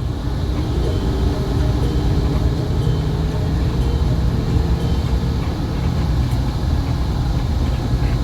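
Hino R260 bus's turbocharged inline-six diesel engine running steadily while the bus drives, heard from inside the passenger cabin as a deep, even rumble with road noise.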